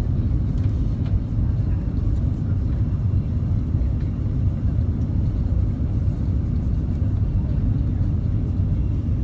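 Steady low rumble of a Cathay Pacific Airbus A330-300 heard from inside the passenger cabin: engine and airflow noise with no sudden changes.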